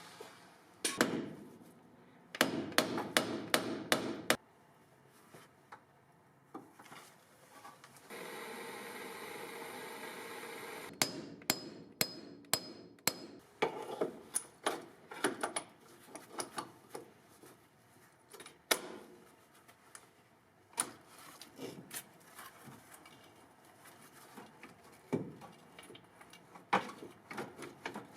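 Hand tools knocking and clinking on metal, likely while the brake booster is being removed. There is a knock about a second in, then a quick run of about seven sharp strikes, a few seconds of steady hiss, and scattered clinks and taps after that.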